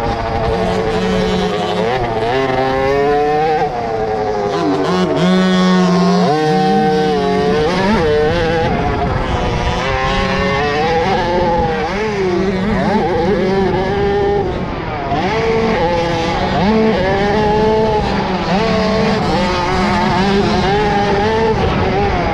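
Several 50cc two-stroke motocross bikes racing, their engines revving up and falling back again and again, several pitches overlapping.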